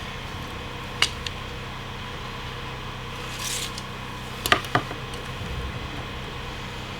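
A few sharp clicks and a short rub from tools and materials being handled, over a steady low hum.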